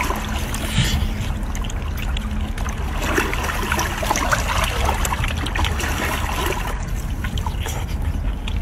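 Close-up wet mouth sounds of cooked shellfish meat being chewed, with small squelches and clicks as the meat is pulled apart by hand, over a steady low rumble.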